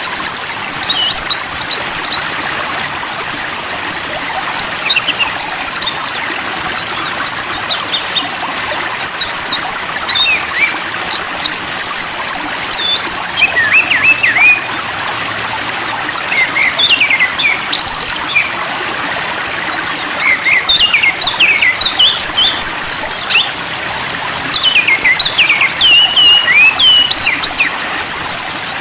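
Small songbirds chirping in quick clusters of short, sharply sweeping high notes, several bursts a few seconds apart, over a steady hiss of running water.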